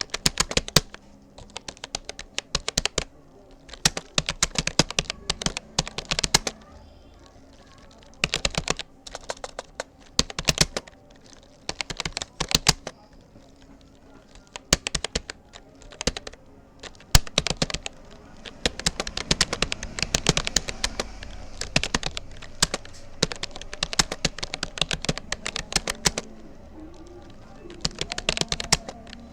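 Fast typing on a Rapoo computer keyboard: rapid keystroke clicks in irregular bursts of a second or two, separated by short pauses, as during a timed typing test.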